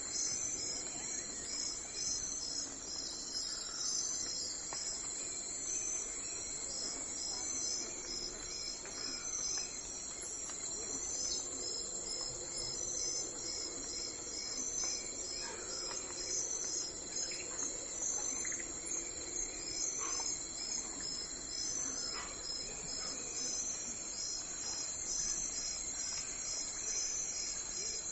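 Crickets chirping in a steady, rapidly pulsing chorus, with a few faint bird chirps scattered through the middle.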